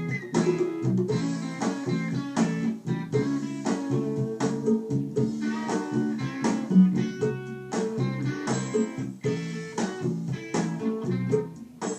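Guitar music: plucked and strummed guitar playing a bluesy song without singing.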